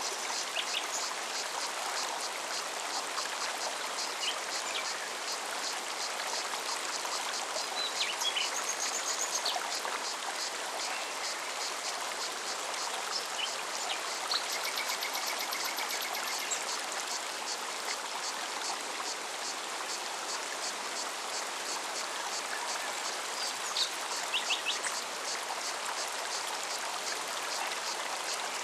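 Mountain forest stream flowing steadily, with a rhythmic high-pitched pulsing cicada call throughout. Birds chirp briefly now and then, with a few short calls near the middle and again near the end.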